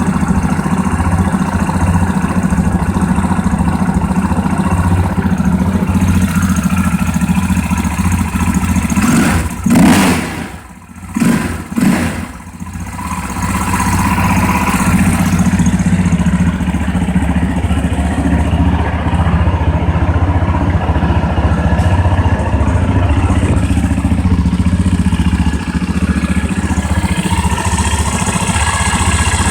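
2005 KTM 625 SMC's single-cylinder four-stroke engine idling steadily after a cold start. About a third of the way in, the engine briefly gets loud and then drops off twice in quick succession before settling back to a steady idle.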